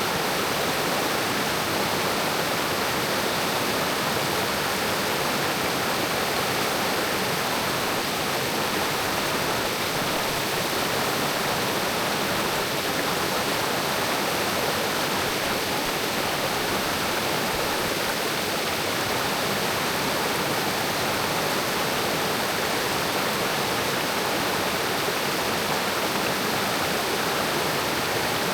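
Mountain creek rushing over rocks: a steady, even wash of running water.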